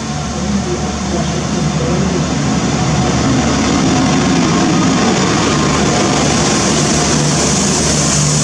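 SA133 diesel railcar running past along the platform close by: a steady low engine drone with the rumble and hiss of wheels on rail, growing louder about three seconds in and then holding steady.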